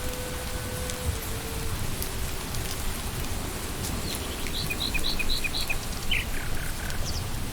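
Steady rain falling on leaves and ground. Partway through, a bird calls a quick run of about five repeated chirps, then a few falling notes.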